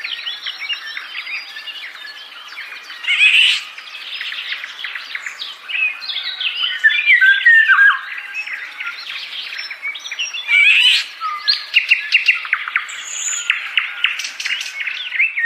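Birds calling without pause: a dense mix of rapid chirps and harsh squawks, with a few short falling whistled notes.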